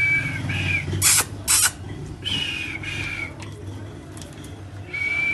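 Pet parrot making short whistled calls, two harsh bursts about a second in, then more whistles and a longer held whistle near the end.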